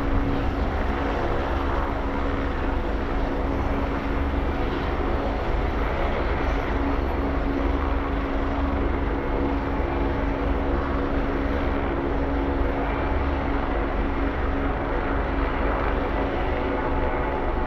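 Helicopter running steadily close by. Its engine keeps a steady tone over a low, fast rotor beat, holding level throughout.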